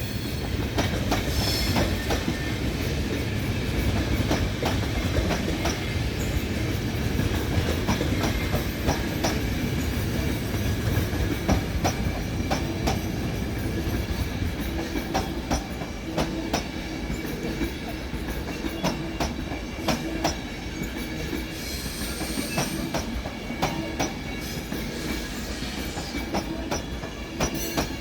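Locomotive-hauled regional train, a class 182 Taurus electric locomotive with its coaches, rolling through the station throat. A continuous low rumble runs throughout, with many irregular wheel clicks over rail joints and points.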